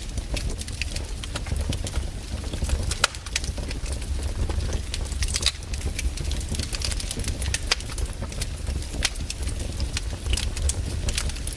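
Wood campfire burning, with frequent irregular crackles and sharp pops of the burning wood over a steady low rumble.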